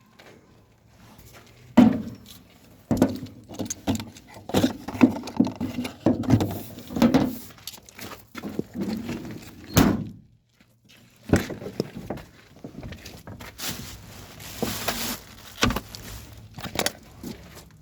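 Irregular knocks, clunks and rattles of hard objects being handled, with a short pause about ten seconds in.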